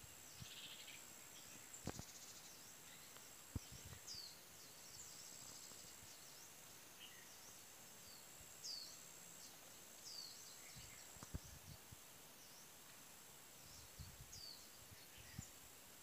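Faint birds chirping: short high notes that slide downward, scattered every second or two over a faint steady high-pitched tone, with a few soft knocks.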